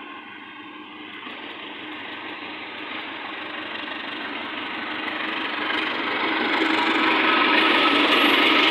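Diesel train approaching, its engine and running noise growing steadily louder.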